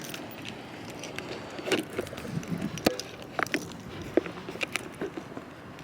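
Footsteps of a person walking outdoors: a run of short, irregularly spaced steps and clicks over a steady background hiss.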